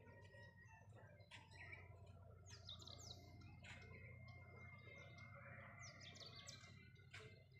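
Faint birds chirping: a few clusters of quick, high, falling calls, with a thin held high note for a couple of seconds in the middle.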